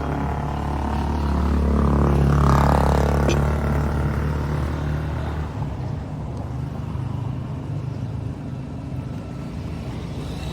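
A motor vehicle running: a steady low drone that swells about two seconds in and eases after about five and a half seconds.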